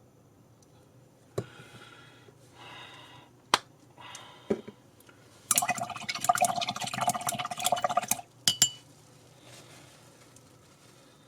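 Paintbrush being rinsed in a water pot, rattled quickly against the side of the pot so it clinks for a few seconds, after a few single taps. This is a brush being cleaned between paint colours.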